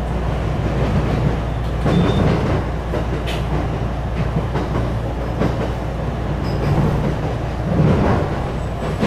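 Inside the carriage of a JR West 225-series electric train running at speed: a steady rumble of wheels on rails, with a few faint clicks.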